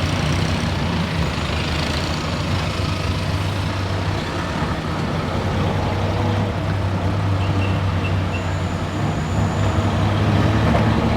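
Tuk-tuk engine running steadily while driving, heard from the passenger seat, with road noise.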